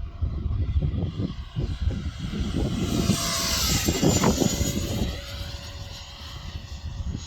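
Electric ducted fan of an F-16 model jet (80 mm Xfly unit) making a fast pass. Its whine swells about three seconds in and drops in pitch as it goes by, over gusty wind rumble on the microphone.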